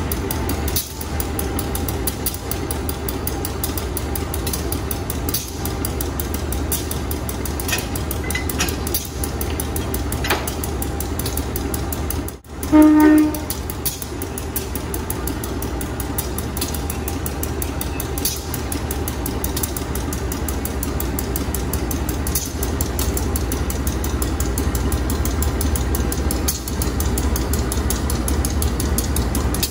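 Train running: a steady low rumble with scattered clicks from the wheels and cars. About twelve seconds in, after a brief drop-out, a short horn blast sounds once.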